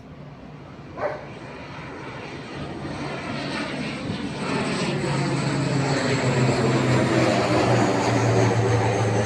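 ATR 72-600 twin-turboprop airliner's engines and propellers running, a steady low hum with overtones that grows steadily louder as the aircraft approaches.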